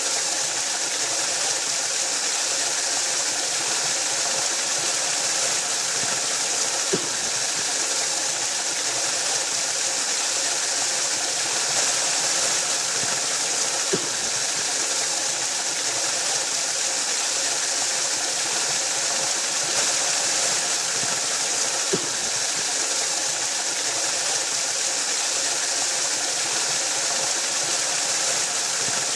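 Waterfall rushing steadily, a constant hiss of falling water, with a faint click about every seven to eight seconds.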